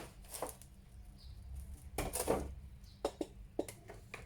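Rummaging through an action figure's box and packaging: a rustle about two seconds in, then several small sharp clicks and knocks of plastic parts being handled.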